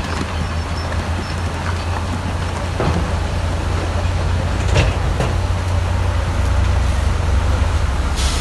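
Heavy diesel earthmoving machinery running steadily with a deep engine drone, with a few sharp knocks, the loudest about five seconds in and near the end.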